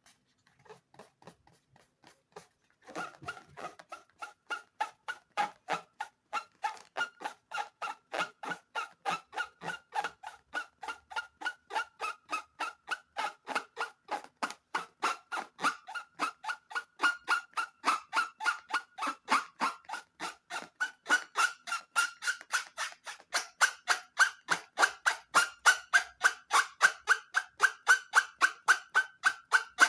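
Rubber balloon squeaking in a steady rhythm of short squeaks, about three a second, starting about three seconds in and growing louder toward the end.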